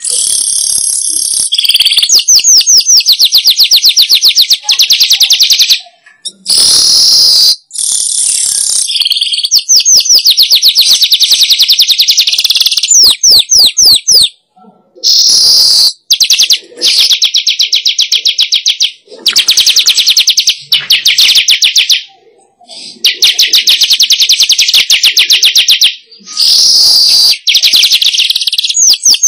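Manyar weaverbird song: fast, buzzy chattering trills in bouts of a few seconds, broken by short pauses.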